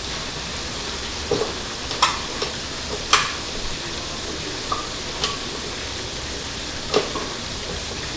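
Steady sizzle of food frying in a pan, with about seven short knocks and clinks scattered through it.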